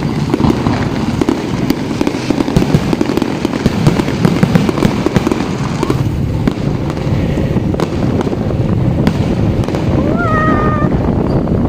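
Fireworks display going off in a dense, continuous barrage of bangs and crackles, with a brief rising tone about ten seconds in.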